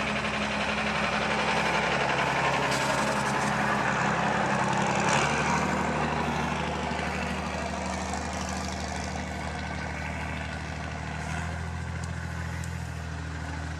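IFA W50 truck's diesel engine working over rough off-road ground, louder and rougher in the first few seconds. Its note changes in steps about five seconds in and again near eleven seconds.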